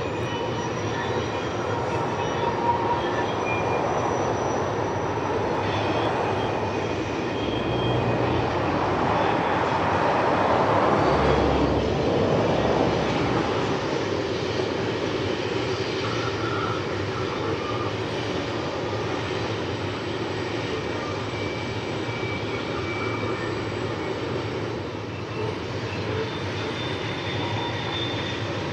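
Freight train rolling by: a steady rumble of railcars with thin, high wheel squeals coming and going. It swells to its loudest about ten to twelve seconds in, with a deeper rumble, then eases off.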